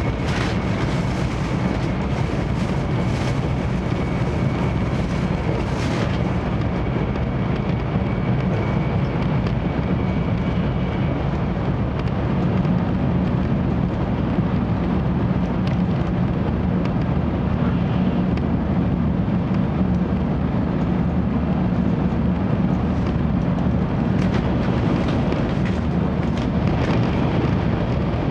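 Cabin running noise of a 700 Series 7000 (Rail Star) Shinkansen at speed: a steady deep rumble of wheels on rail and air. A faint thin high whistle sits over it for roughly the first ten seconds, and a few light ticks are scattered through it.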